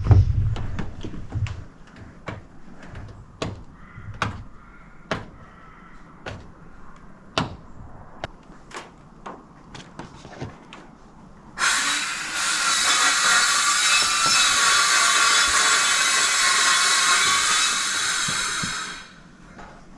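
Scattered light knocks and clicks on the roof panels, then a power drill/driver running steadily for about seven seconds from just before the middle, stopping sharply near the end, as the roof panels are screwed down.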